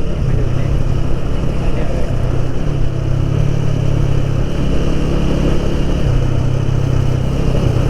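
Motorcycle engine running steadily while riding, with wind rushing over the microphone; the engine note rises a little a few seconds in, then settles back.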